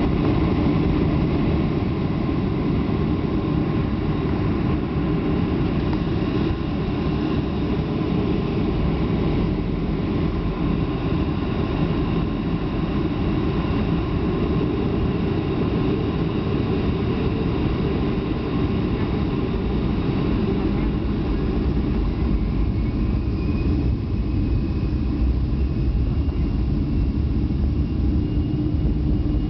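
Airliner engines heard from inside the passenger cabin: a steady, loud rumble with a thin, even whine over it.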